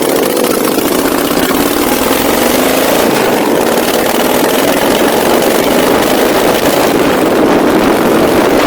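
Motorcycle engine running steadily, its pitch wavering slightly up and down, under a dense rush of noise across the whole range, as of wind on the microphone while riding.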